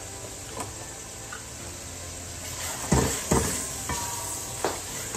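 Spiced tomato-onion masala frying in oil in a metal pot, a steady sizzle. About three seconds in, a silicone spatula starts stirring it, with two loud knocks against the pot followed by lighter scraping and clicks.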